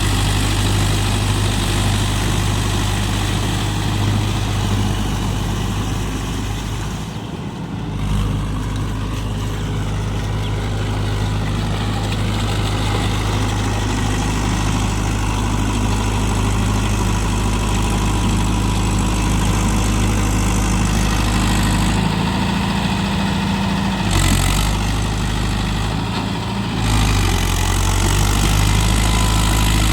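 Mahindra Yuvo Tech+ 585 DI tractor's diesel engine running steadily, its note changing briefly twice, about a quarter of the way in and again past the middle.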